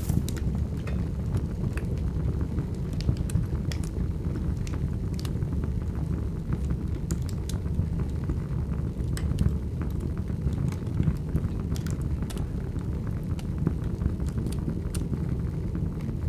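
A large fire burning, with a steady low rumble and scattered sharp crackles and pops throughout.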